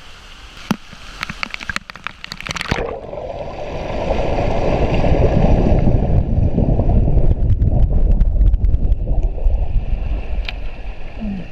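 Waterfall water splashing and rushing close to the microphone: crackling splashes for the first few seconds, then a loud, muffled rushing rumble that builds and holds.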